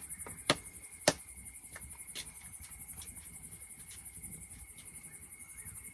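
Insects chirring steadily: a high, rapidly pulsing chorus with a steady high tone beneath it. A few sharp clinks come in the first two seconds or so.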